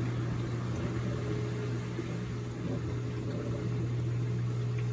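Amana ADB1400AGW dishwasher draining: its drain pump runs with a steady, quite noisy hum, a fainter higher tone held above it.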